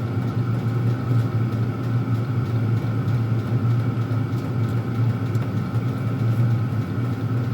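Several Chinese diesel air heaters running together: a steady low hum from their combustion blowers and burners, with a constant higher whine above it.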